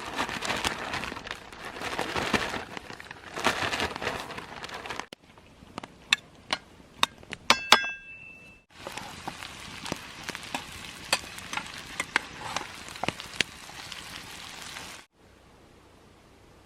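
Breaded fish frying in a pan of hot oil: a steady sizzle with crackles and pops, broken by a few metallic clinks of a utensil on the pan about halfway through.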